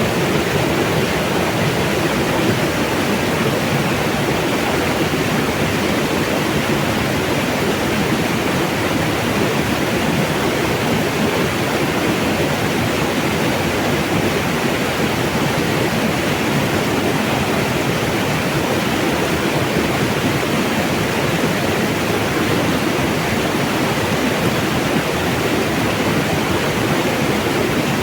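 Mountain water running and splashing steadily in an unbroken rush.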